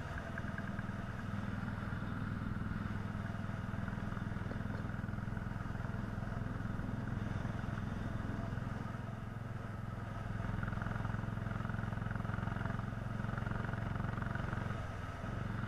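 Royal Enfield Classic 350's single-cylinder engine running steadily on the move, easing off briefly a little past the middle.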